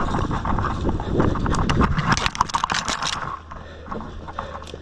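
Running footsteps over rough ground, with gear rattling and scraping close to the microphone. A dense run of sharp clatter falls in the middle, then it quietens near the end.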